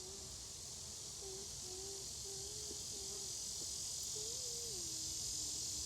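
Honeybees buzzing around an opened hive: a single wavering buzz that breaks off and returns, rising and dipping in pitch as bees fly near, over a steady high insect hiss.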